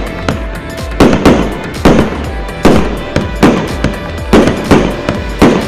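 A 1.25-inch, 320-shot consumer fireworks cake firing: a rapid run of loud aerial shell bursts, roughly two a second, over music.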